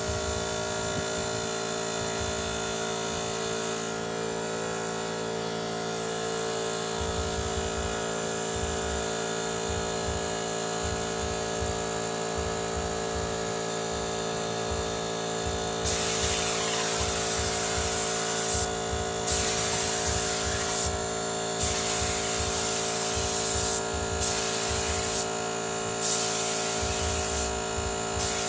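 A 24-litre Motomil air compressor running with a steady whine. In the second half, compressed air hisses out in a series of bursts, each cutting in and out sharply.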